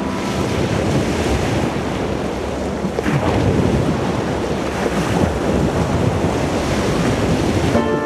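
Ocean surf recording: waves washing and breaking in a steady rushing wash that swells and ebbs. Near the end a sustained piano chord comes in over it.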